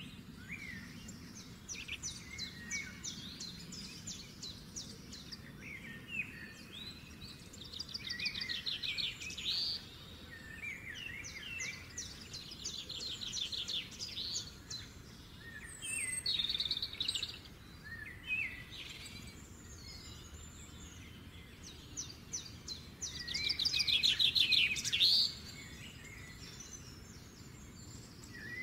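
Songbirds singing and chirping, with several fast rattling trills; the loudest trill comes near the end. A low steady background noise runs underneath.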